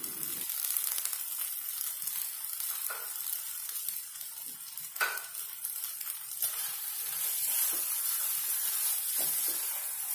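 Masala paste with green peas sizzling in a nonstick kadai as a steady hiss, with a few faint scrapes of a silicone spatula as the peas are stirred in.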